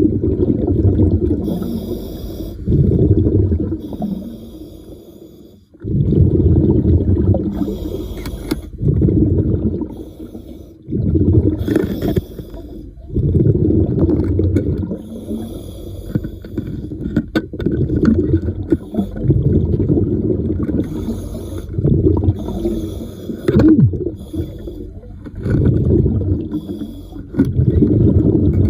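A diver breathing underwater through a regulator: each exhale sends out a rumbling burst of bubbles, and each inhale brings a short hiss. The cycle repeats every couple of seconds.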